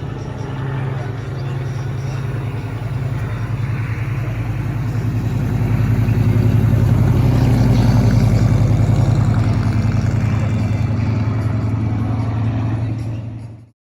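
Car engine running steadily, growing louder about five seconds in, then cut off abruptly near the end.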